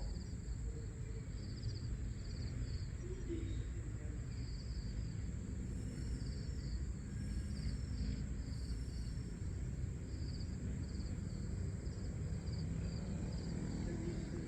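Crickets chirping in short pulsed trills, about one a second, over a steady high-pitched insect drone and a low background rumble.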